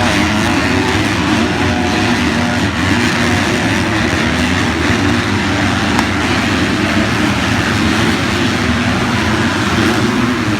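Several motocross bikes' engines running at once, their pitches overlapping in a steady, loud drone.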